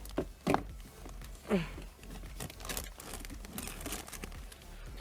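Rustling and light clicks of things being handled, with one short falling vocal sound about one and a half seconds in.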